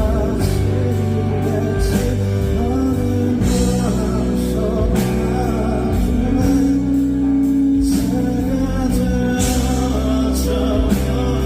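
A male singer performing live over band accompaniment, with sustained chords and a steady beat.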